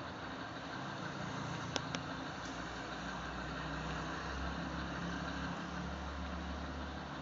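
Road vehicle noise: a steady car engine and traffic hum whose low rumble swells in the middle, with two sharp clicks about two seconds in.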